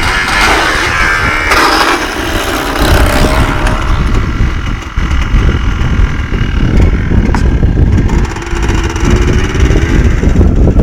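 Yamaha Blaster quad's two-stroke single-cylinder engine running and revving up and down.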